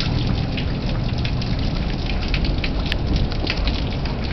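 Heavy thunderstorm rain pouring down steadily, with scattered sharp ticks of drops striking close by, over a steady low rumble.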